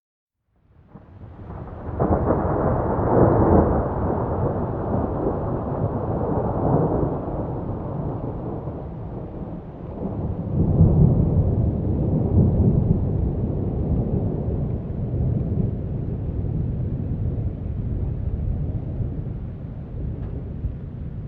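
Thunder rolling in one long rumble: it rises out of silence about a second in, swells loudest about three seconds in and again about eleven seconds in, then slowly fades.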